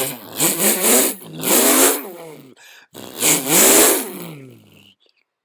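Engine-like revving in three swells that rise and fall in pitch, the last one sliding down and stopping about five seconds in.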